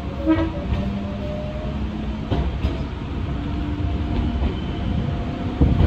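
Electric train running on the rails as it pulls away from a station, heard from inside the cab: a steady low rumble of wheels with a thin hum from the traction motors over it.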